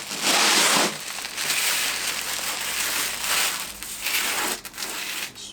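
Roofing felt crackling and rustling as the roll is handled and unrolled, loudest in a surge during the first second.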